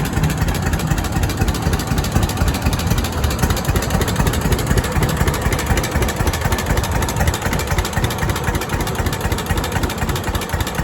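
An engine running steadily, with a rapid, even chugging pulse.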